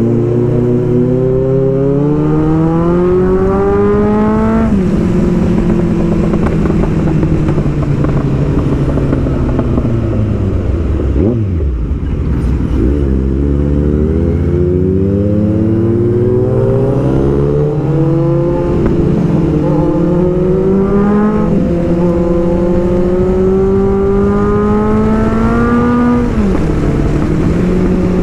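Kawasaki Z900 inline-four motorcycle engine heard while riding. It accelerates with rising pitch and drops sharply at each gear change, slows to a low pitch about halfway through, then pulls away again through the gears, with wind rushing past.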